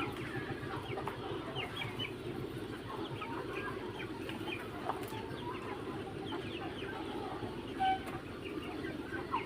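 A flock of three-month-old Mía chickens clucking and cheeping in many short, scattered calls, over a steady low hum.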